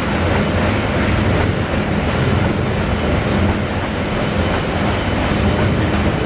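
Steam engines of the paddle steamer PS Emmylou running steadily ahead at a gentle pace, a loud, even mechanical working sound with a pulsing low beat.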